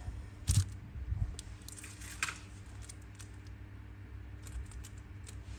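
A few light clicks and knocks, about a second apart and all in the first half, from handling metal Zippo lighters, over a faint low hum.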